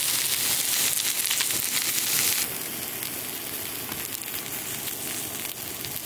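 Food sizzling in a hot pan, with many fine pops and crackles. About two and a half seconds in it cuts suddenly to a quieter crackling with scattered pops.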